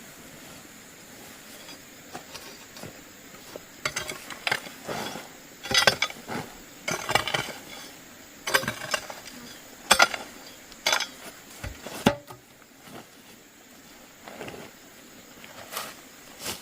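Irregular sharp knocks and clinks, coming in clusters with the loudest around the middle, over a faint steady high-pitched hum.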